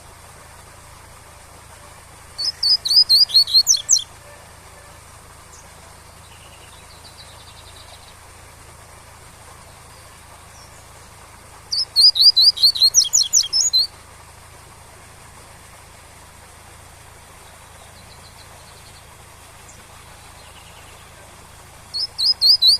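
Double-collared seedeater (coleiro) singing its tui-tui song in three bursts about ten seconds apart, each a quick run of high sweeping notes lasting under two seconds. A steady waterfall hiss sits underneath.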